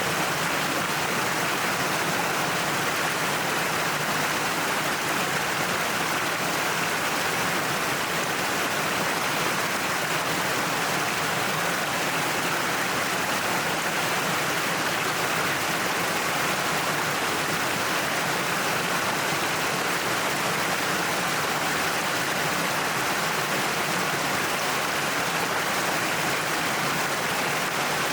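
Waterfall: water pouring down a cliff face into a pool, a steady even rush of falling water.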